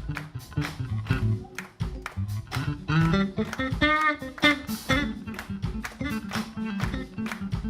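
Electric bass solo over a steady drum beat, the bass playing plucked low notes with a brighter run of higher notes about three to five seconds in.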